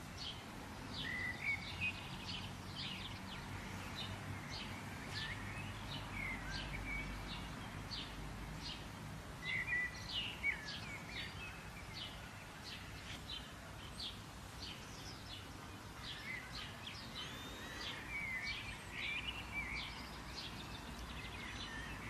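Birds chirping and calling: many short, quick chirps and brief sweeping notes throughout, over a steady low outdoor rumble.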